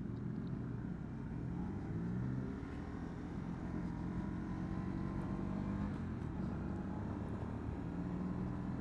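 Honda CB125R's single-cylinder 125 cc engine running under way, its note rising and falling a little with the throttle, over a steady rush of wind and road noise.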